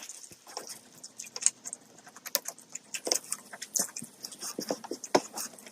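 Close-up eating sounds: irregular wet clicks and crunches of chewing, several a second.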